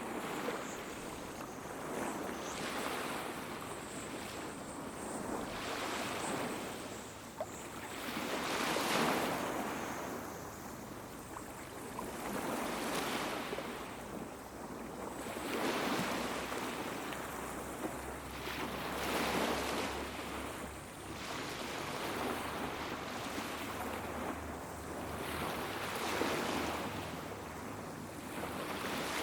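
Small sea waves washing onto a beach, the surf swelling and falling away about every three seconds.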